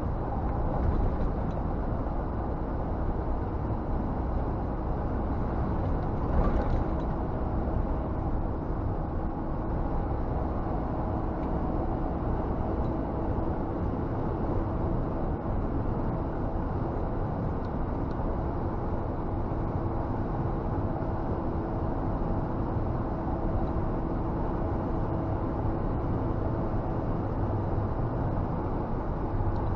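Scania G460 truck heard from inside the cab while driving: a steady low drone of diesel engine and road noise with a faint steady hum, and one brief thump about six seconds in.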